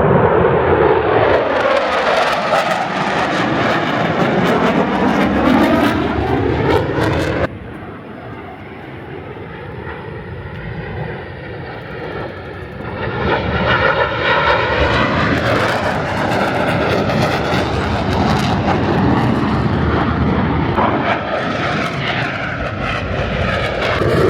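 Jet aircraft flying past overhead, its loud engine noise sweeping down and back up in pitch as it passes. It cuts off abruptly about seven seconds in, and a jet's noise builds again a few seconds later.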